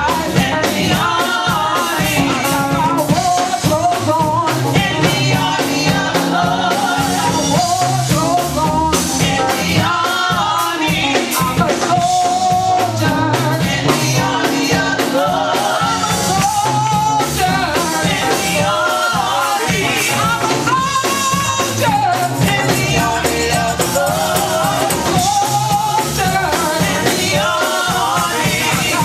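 Live gospel praise music: singing voices over drums and fast, dense percussion, keeping a steady driving beat.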